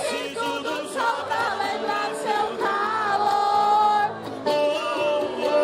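Live concert music: a sertanejo duo's male voices singing over the band.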